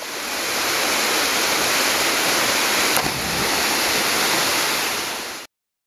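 Waterfall rushing: a steady, loud noise of falling water that fades in and cuts off abruptly near the end, with one brief tick about three seconds in.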